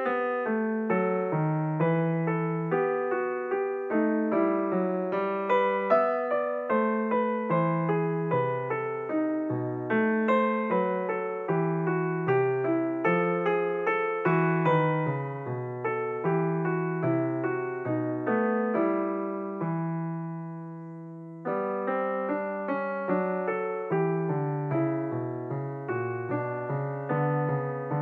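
Background music: a slow solo piano piece of struck notes and chords. About twenty seconds in, one chord is held and fades away before the playing starts again.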